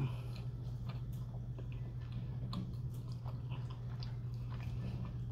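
Close-up mouth sounds of someone chewing a mouthful of cheesesteak sandwich with fries in it: small, irregular wet clicks. A steady low hum runs underneath.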